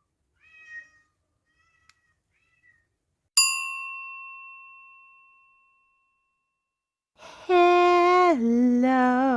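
A few faint cat meows, then a single bell ding that rings out and fades over a few seconds. Near the end a loud, long drawn-out call holds one pitch, steps down, then wavers.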